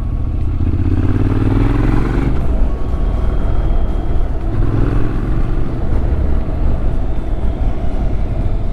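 Motorcycle engine pulling through the gears on a winding mountain road, rising in pitch twice as the rider accelerates, over steady wind and road noise.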